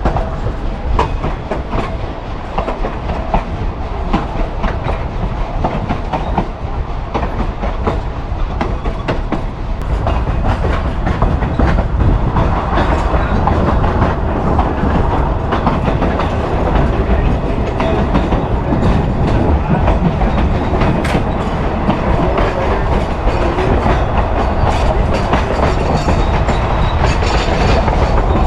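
Narrow-gauge passenger train car rolling on the rails, its wheels clacking over the track joints with a continuous rumble. It gets louder about ten seconds in.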